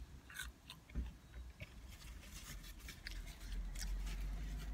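A person chewing French fries close to the microphone: small wet mouth clicks and crackles. A low rumble rises about three seconds in.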